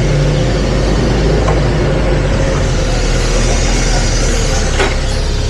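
Hyster H100FT forklift engine running steadily with a constant low hum, and a short sharp click near the end.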